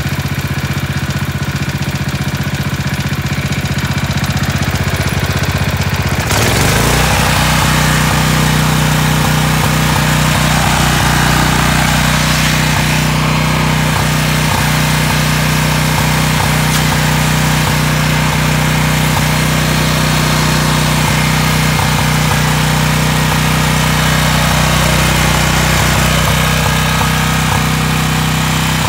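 Engine with a freshly rebuilt carburetor running steadily at idle. About six seconds in its note changes and it runs a little louder and fuller.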